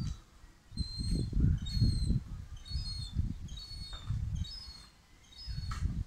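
Birds chirping in short, high notes, many in quick succession, over a low rumbling noise that comes in gusts and is the loudest sound.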